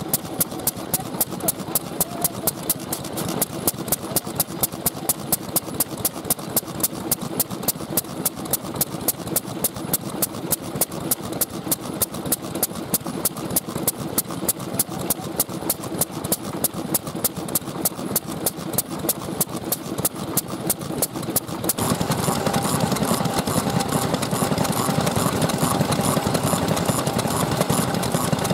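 Vintage Japanese stationary oil engine running, with sharp regular ticks about three or four times a second. About 22 seconds in the sound changes abruptly to a louder, denser engine running steadily.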